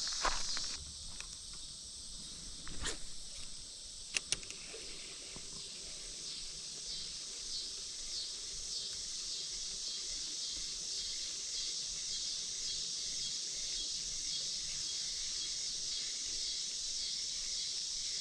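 A steady, high-pitched chorus of chirping insects, with a few sharp clicks in the first few seconds, two of them in quick succession.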